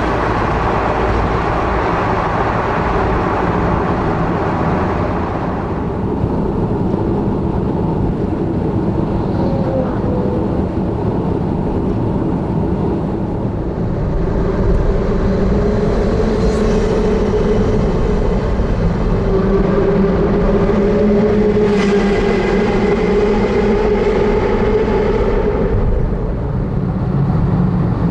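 Car driving, with steady engine and road noise. About halfway through, a louder engine drone with a clear pitch comes in and holds for around twelve seconds before easing off.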